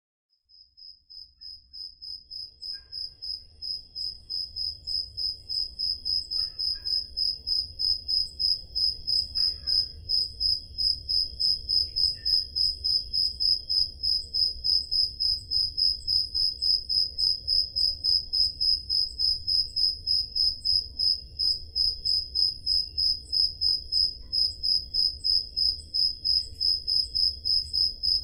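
Crickets chirping on a summer night, one loud cricket close by giving a steady, even chirp about three times a second. The chirping fades in over the first few seconds.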